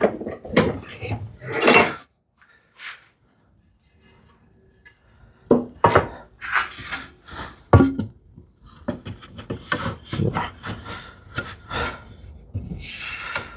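Hand-tool work on a wooden tenon: short wooden scraping and rubbing strokes and light knocks, with a quiet pause a couple of seconds in.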